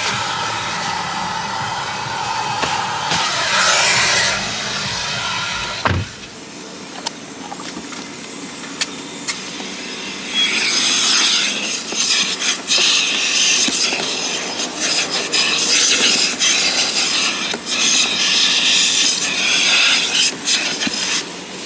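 Background music for about six seconds, then, after a cut, loud irregular scrubbing and rubbing against a car's surfaces during cleaning.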